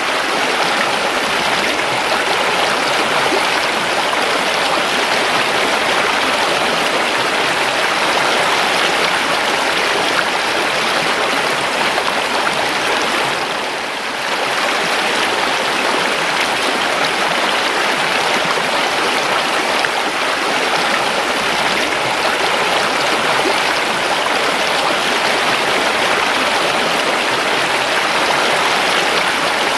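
River water flowing steadily: an even rushing and babbling of a stream, with a brief dip in level about halfway through.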